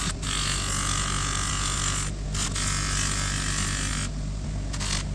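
A small electric power tool running with a steady hum, and a harsh hiss from its abrasive working the metal that cuts in and out several times, stopping about four seconds in.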